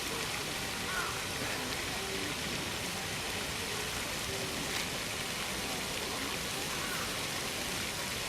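Steady, even rushing noise, with a couple of faint short high notes about a second in and near the end.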